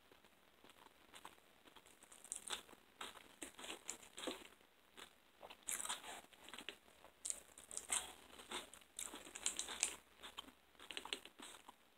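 A person chewing crunchy food close to the microphone, in irregular crunches that begin about two seconds in.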